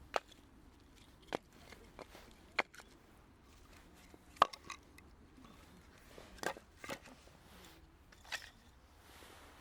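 Scattered short clicks and knocks, about a dozen at uneven intervals, the loudest about four and a half seconds in.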